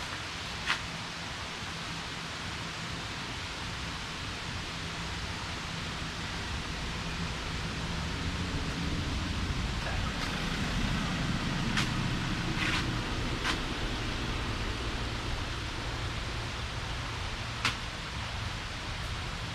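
Steady rushing of a rain-fed waterfall, swelling a little in the middle, with a few short, sharp clicks over it.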